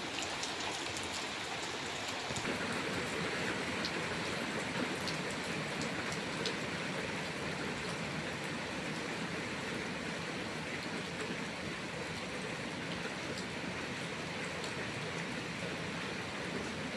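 Steady rain falling, with scattered individual drops ticking sharply against a surface, a little heavier from about two seconds in.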